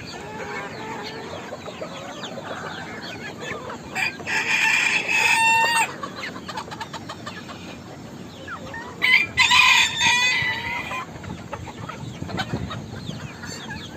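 Bantam roosters crowing twice, about four seconds in and again about nine seconds in, each crow lasting around two seconds, over the steady clucking and cheeping of a flock of chickens.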